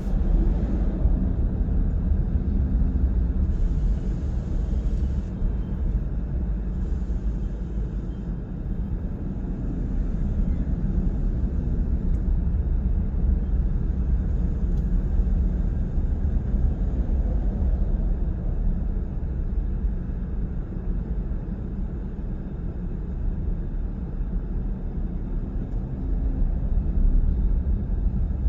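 Steady low road and engine rumble of a car driving, heard from inside the cabin, with a brief higher hiss about four seconds in.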